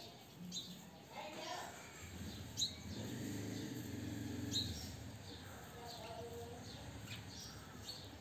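Short, high bird chirps every second or so over a faint murmur of voices in the background.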